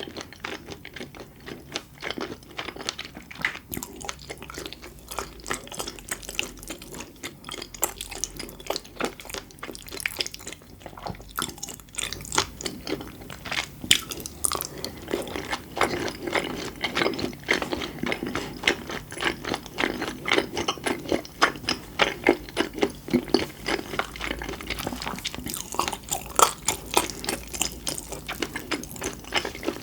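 Close-miked ASMR chewing of food: a dense, irregular run of small wet clicks and pops, busier in the second half.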